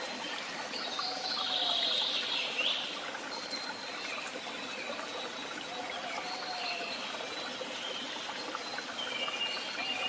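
Several woodland birds singing, with short phrases of high chirps and trills recurring every few seconds and a soft lower whistled note now and then, over a steady background of trickling water.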